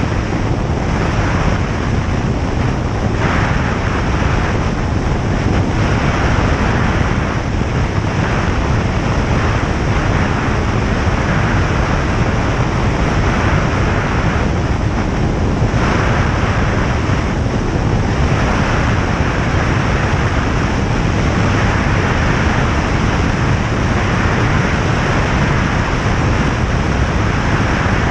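Single-engine light aircraft's piston engine and propeller running steadily in flight, with rushing airflow noise over it.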